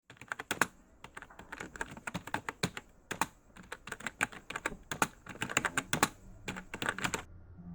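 A quick, irregular run of sharp clicks, several a second, that cuts off suddenly about seven seconds in.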